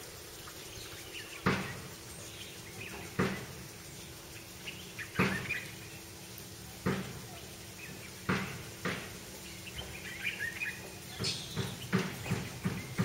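Birds calling: a short sharp call repeated every second and a half to two seconds, with faint chirping between, the calls coming faster near the end.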